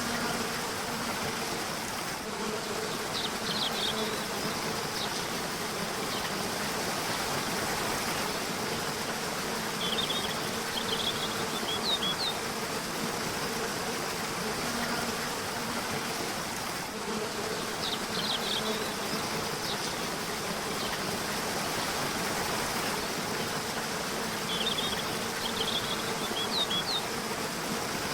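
A river or waterfall flowing steadily, with an insect buzzing on and off over it. Short bursts of bird chirping come four times, evenly spaced.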